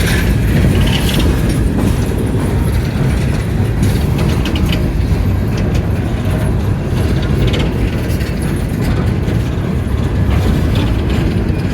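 Empty coal hopper cars of a freight train rolling past: a steady rumble of wheels on rail with scattered clicks and clanks.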